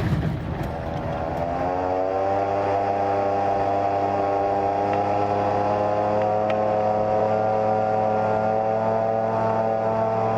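Rotax 912-series engine and three-blade propeller of a Slipstream Genesis ultralight, heard from on board. A rough rushing noise fills the first second or so, then the engine note rises in pitch over about a second and holds steady.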